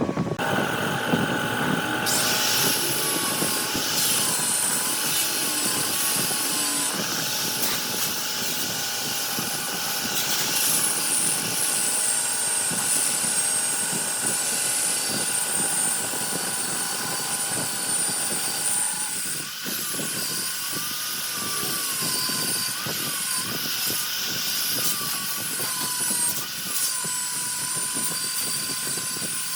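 Wood lathe running steadily with a turning tool cutting a spinning jackfruit log: a steady motor whine over a rough scraping hiss that changes about two-thirds of the way through.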